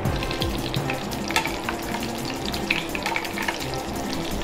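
Chicken drumsticks coated in crushed potato chips frying in shallow oil in a pan: a steady sizzle with scattered crackles and pops.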